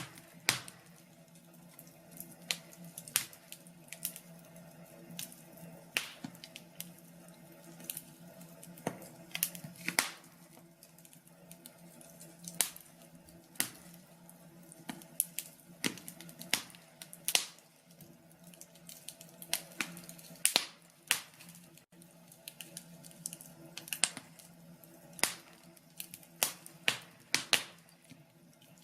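Wood fire in a fireplace crackling, with irregular sharp pops and snaps, a few each second, over a faint steady hum.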